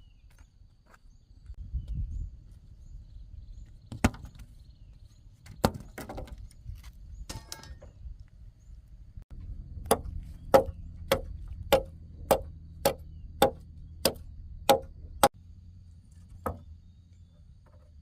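Chopping blows on wood: a few scattered strikes, then a steady run of about ten strikes a little more than half a second apart, with a low rumble underneath.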